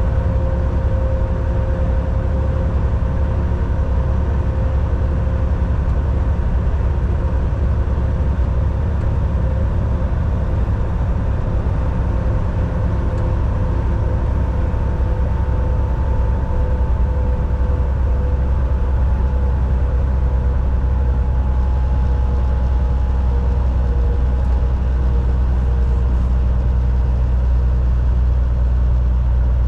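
Volvo VNL 760 semi truck's diesel engine running steadily under way with tyre and road noise, heard from inside the cab: a deep, even hum with a faint whine on top.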